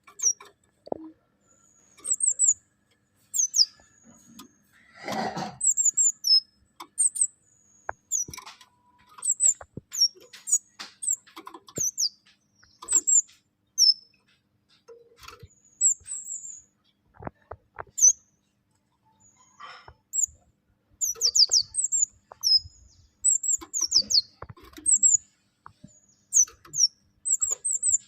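Small caged songbird (小贝子) singing in short, quick phrases of high, thin chirps and falling notes, with scattered light clicks and a brief rustle about five seconds in.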